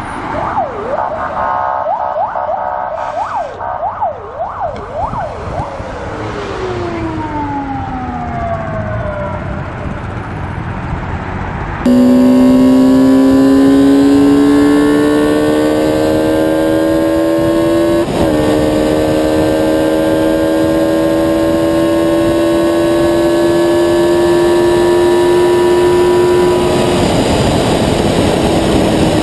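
An emergency siren wails in fast up-and-down sweeps, then its pitch falls away as it passes. After a sudden cut, an engine runs at high revs, its note climbing slowly and steadily with a brief blip partway through.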